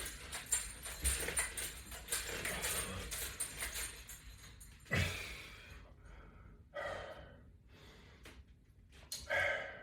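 A man breathing hard while exercising, with a noisy run of breaths and then three separate louder exhales in the second half.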